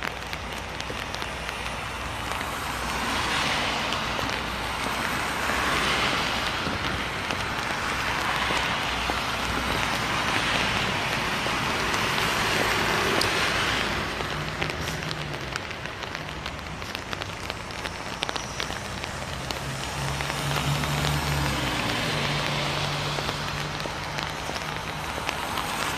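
Light rain falling, with a wet-road hiss that swells and fades several times as vehicles pass. A low steady hum joins in about halfway through.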